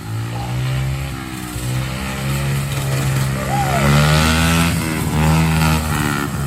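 Small mini-bike engines running under way, the engine pitch rising and falling repeatedly as the throttle is worked, with a low rumble of wind on the microphone.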